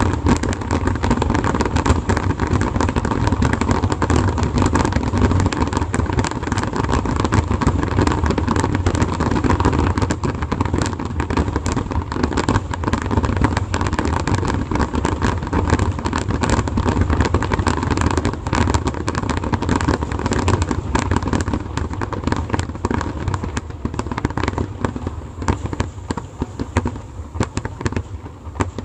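Fireworks finale: a dense, continuous barrage of aerial shell bursts and crackle that thins out and quietens over the last few seconds.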